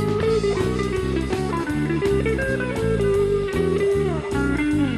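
Country rock band playing an instrumental break: an electric guitar lead with held and bent notes over bass guitar and a steady drum beat.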